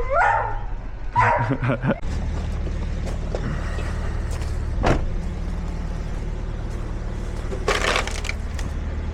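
Vehicle engine running steadily at a low, even hum, with a single sharp knock about halfway through and a brief rush of noise near the end.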